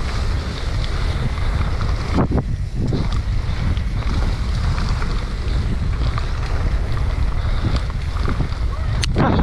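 Wind buffeting the camera microphone of a mountain biker riding downhill at speed, a steady rushing rumble with small rattles and clicks from the ride over muddy ground.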